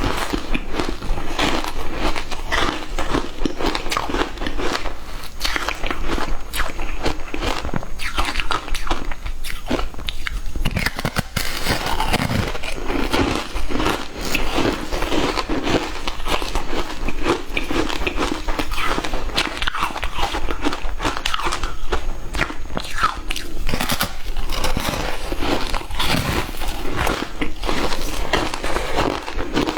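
Frozen matcha ice being bitten and chewed: continuous crunching with dense cracking clicks.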